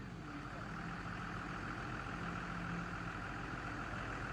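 Diesel engine of heavy farm machinery idling steadily.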